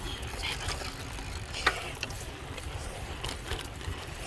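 Bicycle freewheel ticking while coasting, with scattered sharper clicks, the loudest about a second and a half in, over a steady rumble of wind on the microphone.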